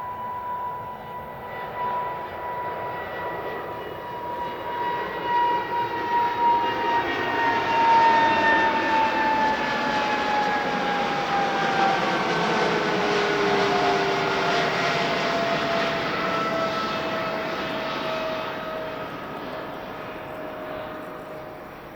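Jet engines of a Boeing 777-200ER airliner at takeoff power passing by. The engine noise carries a whining tone that slides steadily down in pitch as the plane goes past. It builds to its loudest in the middle and fades away near the end.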